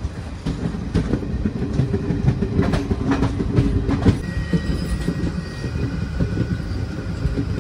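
Passenger train running, heard from on board: a steady low rumble of wheels on rails, with the wheels clattering over rail joints. A faint high whine joins in about halfway through.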